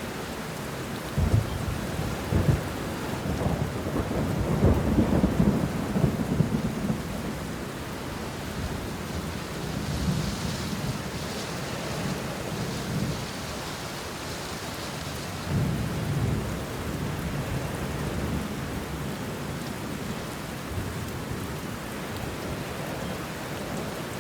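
Steady rain falling on banana leaves and bushes, with thunder: two sharp claps about a second apart near the start, then rolling rumbles that swell and fade several times.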